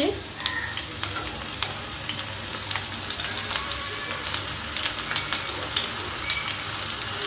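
Eggplant slices frying in hot oil in a frying pan: a steady sizzle with frequent small crackles and pops.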